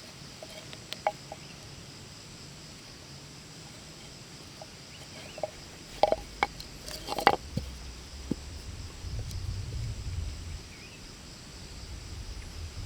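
Steady high-pitched insect drone, with a few sharp clicks about a second in, a cluster of louder knocks about halfway through, and a low rumble after them.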